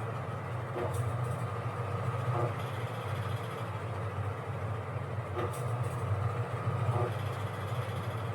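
Washing machine running with a steady low hum and a faint regular swish or tick about every one and a half seconds as the drum turns.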